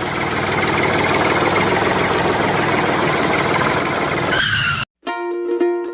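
A motor running steadily, engine-like, which cuts off suddenly about five seconds in. Plucked-string music starts right after it.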